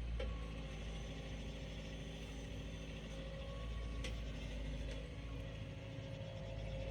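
Heavy vehicle engine running steadily at low revs, with two faint clicks about a quarter second and about four seconds in.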